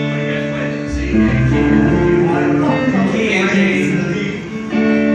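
Country music played on guitar: sustained notes and chords with no singing, and a deep bass note about a second in.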